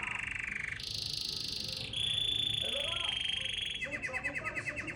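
Domestic canary singing a long run of rolling trills, switching to a new trill at a different pitch about every second, with a fast rattling trill in the last second.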